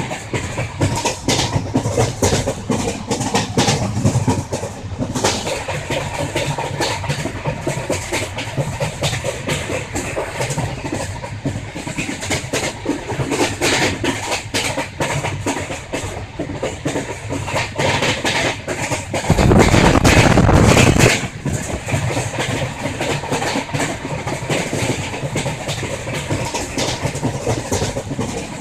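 Passenger train running, heard from on board: wheels clattering over the rails over a steady rumble. About two-thirds of the way through, a louder rushing burst lasts about two seconds.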